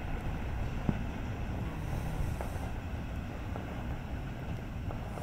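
Low, steady rumble of a double-stack container freight train rolling away as its last cars pass, with a few faint clicks.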